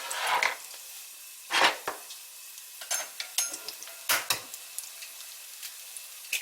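Food sizzling in a frying pan, a steady hiss broken by several short clatters of a utensil against the pan; the loudest comes about a second and a half in.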